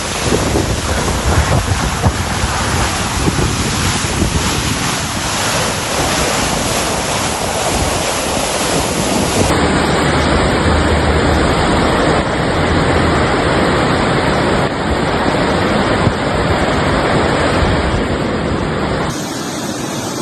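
Loud, steady rush of water with wind buffeting the microphone. The sound changes abruptly about halfway through and again near the end, as if cut between clips.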